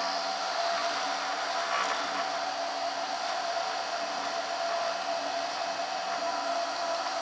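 Small CNC router spindle motor running with a steady whine while it drills a hole through plexiglass.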